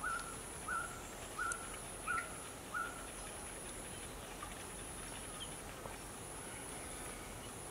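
Forest ambience: a bird repeats one short call note five times, about one every 0.7 seconds, stopping after about three seconds. Under it a steady high insect drone breaks off briefly now and then.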